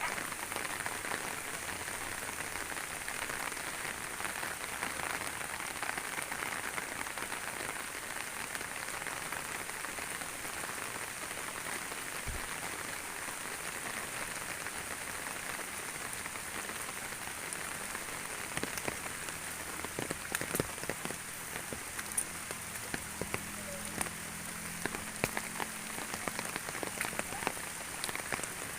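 Steady rain falling on village surfaces, an even hiss, with scattered sharper ticks of individual drops from about two-thirds of the way in.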